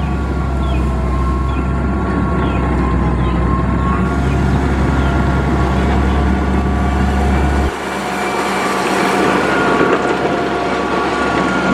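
Heavy diesel construction machine running at work, a steady deep rumble under a noisy mechanical clatter with a thin high whine. About two-thirds of the way through the deep rumble drops away suddenly while the rattling noise goes on.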